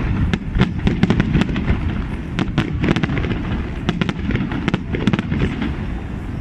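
Fireworks going off: a rapid, dense run of sharp bangs and crackles over a low rumble, thinning out near the end.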